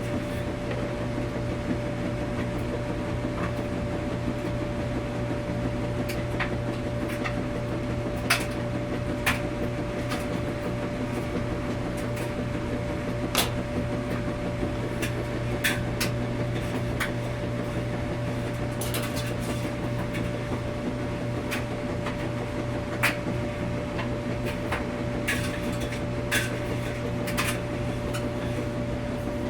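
Washing machine running in a laundromat: a steady mechanical hum with a constant tone, broken by sharp clicks and light knocks at irregular intervals every few seconds.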